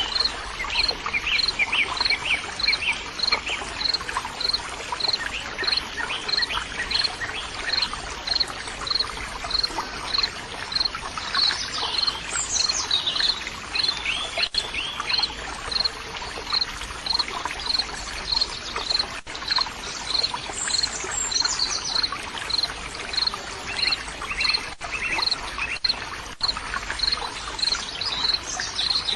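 Nature ambience: an insect, cricket-like, chirps steadily about one and a half times a second over the even rush of flowing water. Birds call now and then, with quick falling calls about twelve seconds in, again around twenty seconds, and near the end.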